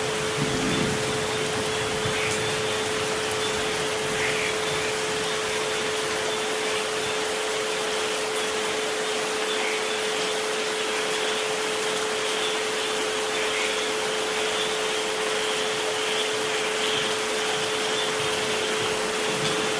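Steady rain hiss with two pure tones held underneath, at 432 Hz and 528 Hz.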